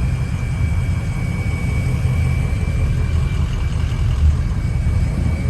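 A vehicle engine idling: a steady low rumble, with a thin steady high whine over it.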